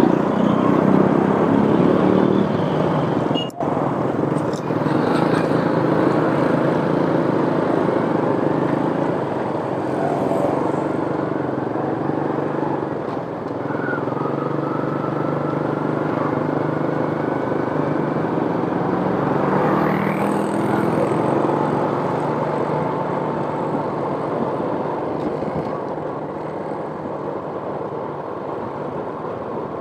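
Motor vehicle engine running steadily, with a slowly shifting engine note and road noise. The sound cuts out for an instant about three and a half seconds in.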